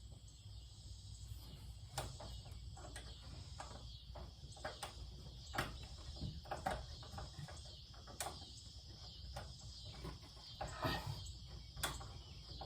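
Scattered faint clicks and taps of a flathead screwdriver working screws on a ceiling fan's canopy. Crickets chirr steadily behind.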